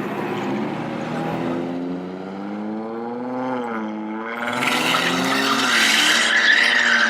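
Car engine running as the car drives off, its pitch rising and dipping, then a louder, harsher burst of revving from about halfway in.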